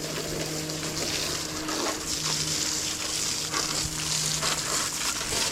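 Water spraying from a hose, a steady crackling hiss with a faint low hum beneath it.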